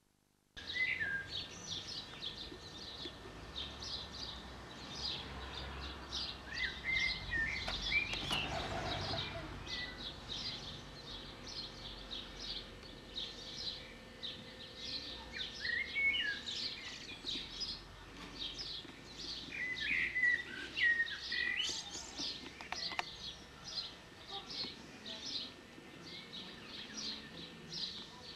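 Small birds chirping steadily: quick high chirps repeated several times a second, with a few lower warbled phrases now and then. A brief rush of noise swells up about eight seconds in.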